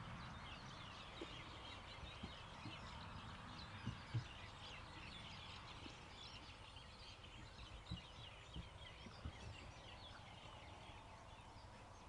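Faint, busy chirping of birds, with a few soft knocks.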